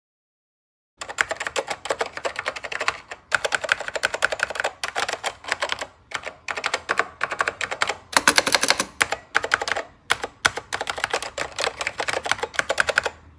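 Fast typing on a vintage computer keyboard: a rapid clatter of keystrokes in runs separated by short pauses. It starts about a second in and stops just before the end.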